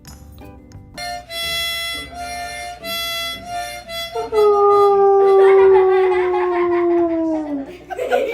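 A harmonica plays a few held notes, then a dog howls along in one long call that sinks slowly in pitch and drops off at the end.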